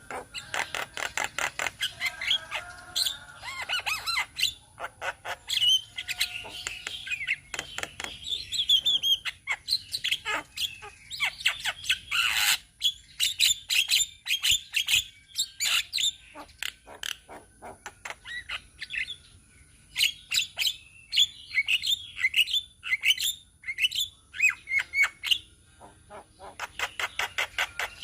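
Several Javan mynas chattering together: rapid runs of harsh clicking notes mixed with short whistles and squawks, overlapping and continuous.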